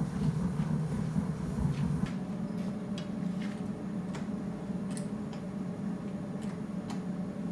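A forge running with a steady low hum, heating steel, with a few faint scattered clicks.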